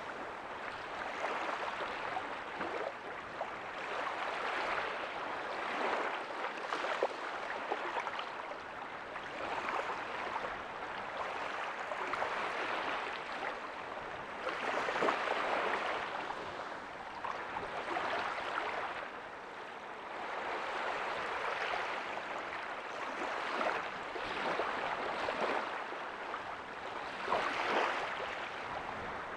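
Small ocean waves breaking and washing up a beach, a continuous hiss of surf that swells and eases every few seconds.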